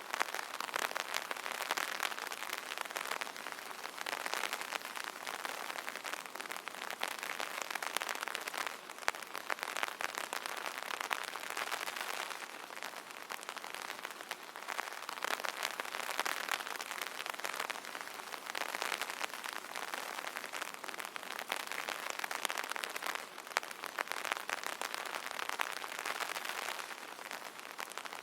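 Rain pattering densely on an umbrella canopy, many fine drop ticks that swell and ease every few seconds.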